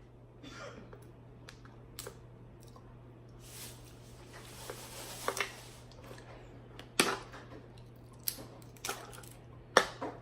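Scattered sharp clicks and cracks from eating seafood by hand, the sounds of handling and breaking into shellfish. A low steady hum runs underneath.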